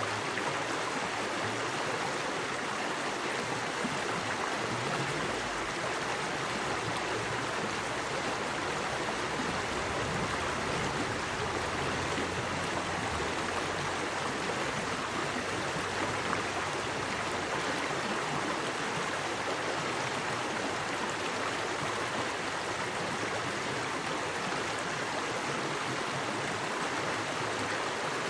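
Small forest creek, fast water running over rocks: a steady, even rush.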